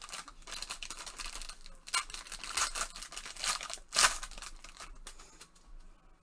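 Packaging of a sealed trading-card box being torn and crinkled open, a dense crackle with two sharp rips about two and four seconds in.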